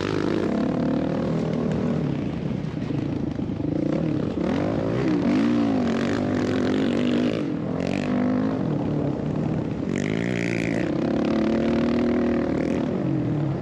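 Dirt bike engine revving up and down over and over, its pitch rising and falling every second or two as the throttle opens and closes.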